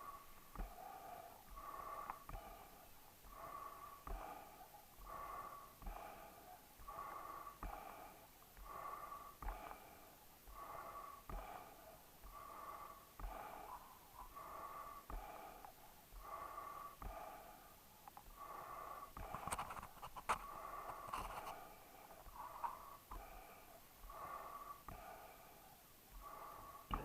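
A dog breathing noisily in a steady rhythm, a wheezy, snore-like breath sound about once a second. A few sharp clicks come through near the two-thirds mark.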